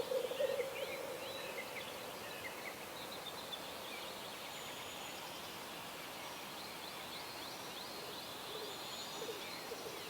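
Dawn chorus of distant birds chirping in short high notes, over a faint steady hiss of open air. A low rolling, pulsing call sounds at the start, fades out about half a second in and comes back briefly near the end.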